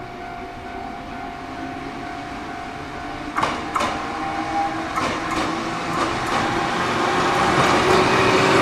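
Electric train approaching, its noise rising steadily, with pairs of sharp clacks as the wheels cross rail joints from about three seconds in.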